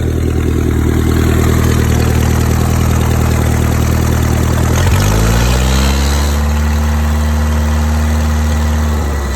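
Mercruiser 3.0 four-cylinder marine engine running at idle, then revved up about halfway through and held at a higher steady speed before dropping back near the end.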